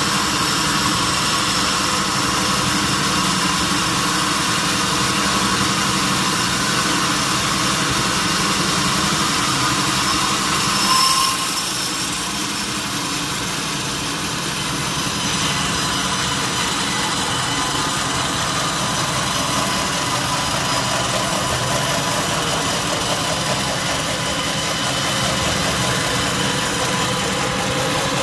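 Sawmill machinery running steadily, a continuous engine-like hum with several steady tones. About eleven seconds in there is a brief louder, higher-pitched squeal.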